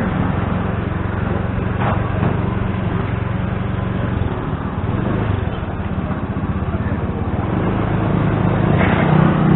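Motor scooter's small engine running steadily, with a constant wash of road noise over it.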